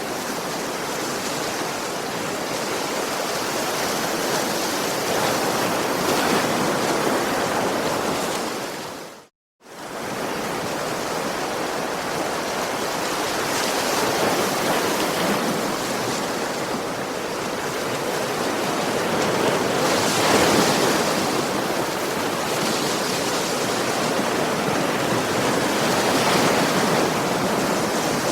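Sea waves washing onto a shore in a steady rush that swells every several seconds. The sound cuts out for about half a second, roughly a third of the way in, and fades back in.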